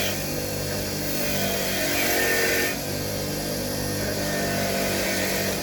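A small electric power tool running steadily while the mower's spark plug is cleaned on it, with a harsher, scratchier stretch about two seconds in as the plug is worked against it.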